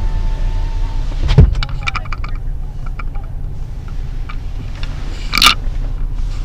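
Low steady rumble heard inside a parked car, picked up on a large microphone. A loud knock about a second and a half in is followed by a run of small clicks, and there is a short hissy burst near the end, like noises from handling the mic.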